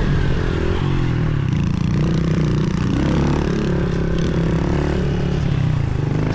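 Pit bike engine running under way as it is ridden, its pitch rising and falling with the throttle.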